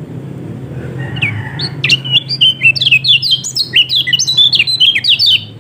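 Kecial kuning (Lombok white-eye) singing a fast, chattering song of short, sharply sliding high notes. It starts with a few notes about a second in and becomes a dense, rapid run from about two seconds in. A steady low hum runs underneath.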